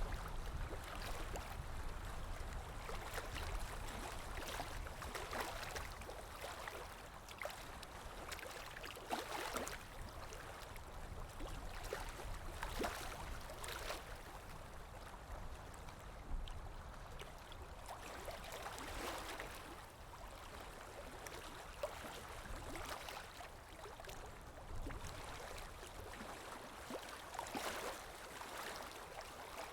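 Ocean waves lapping and washing: a steady wash of water with many small, brief splashes.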